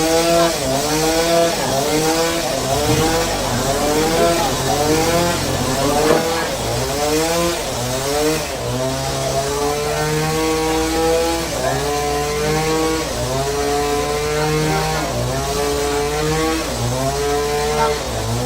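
A saw's petrol engine running under load. Its pitch dips and recovers in a quick repeating cycle, then holds steadier for longer stretches with brief drops.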